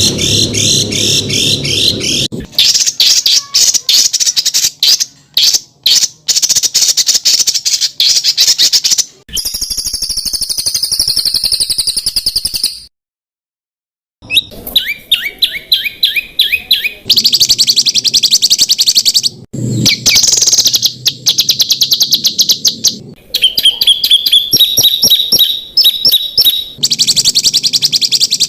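A spliced sequence of harsh, rapid-fire songbird calls: fast repeated sharp notes and trills, the 'tembakan kasar' call material of a masteran track for training competition songbirds. The clips cut abruptly from one to the next, a low buzz sits under the calls for the first two seconds, and there is a second of silence about halfway through.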